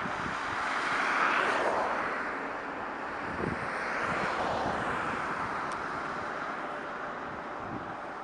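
The twin GE90-115B turbofan engines of a Boeing 777-300ER at takeoff power: a broad, rushing jet roar that swells about a second in and again around four seconds in.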